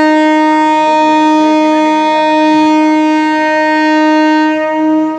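Train horn sounding one long, steady blast at a single pitch, cutting off shortly before the end.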